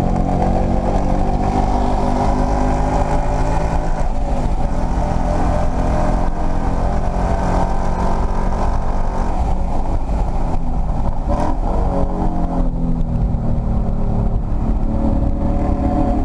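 2016 Ford Mustang's engine, heard from inside the car, running at full throttle through the gears on a race track straight, with a gear change a few seconds in. In the last few seconds the throttle lifts as the car brakes hard for a corner.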